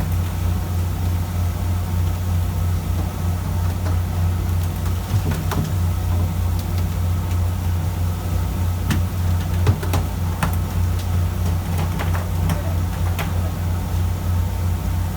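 A fishing boat's engine running steadily with a low, even hum, with scattered light clicks and knocks over it.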